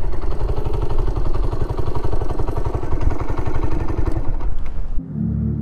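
Suzuki motorcycle engine running with an even, rapid low putter, cut off abruptly about five seconds in as music begins.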